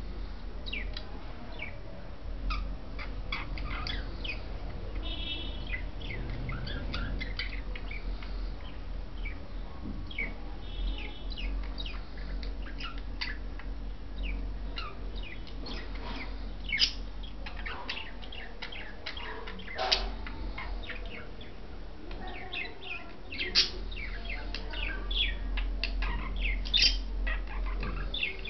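Budgerigars chirping and chattering in a quick, continual run of short calls, with a few louder sharp chirps in the second half, over a low steady hum.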